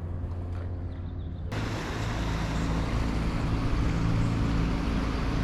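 A motorboat's engine drones steadily as the boat passes near the kayak. About a second and a half in, a broad hiss suddenly joins the engine and carries on to the end.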